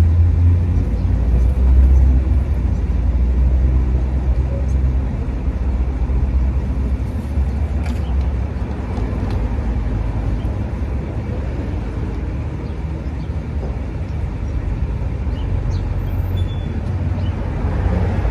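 Steady low rumble of road traffic and a vehicle engine running nearby, stronger in the first few seconds.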